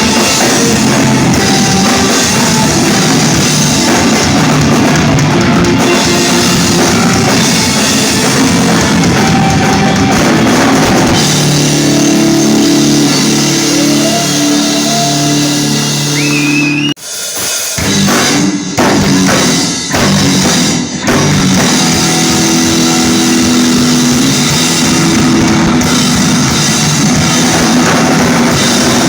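Rock band playing live and loud, with drum kit and guitars. About 17 seconds in the band cuts off suddenly and plays a few short stop hits, then comes back in full.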